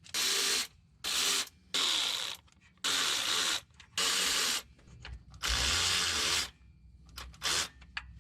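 Power tool spinning a 1/2 inch socket off the differential cover bolts in short bursts, about seven of them, each under a second, with the motor pitch rising and falling in each.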